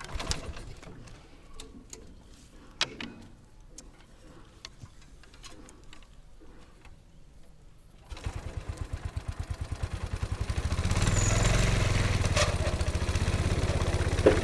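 A bamboo train's small petrol engine starts just over halfway in, firing in quick even pulses, then picks up and runs steadily and louder. Before it there are only a few faint clicks and knocks.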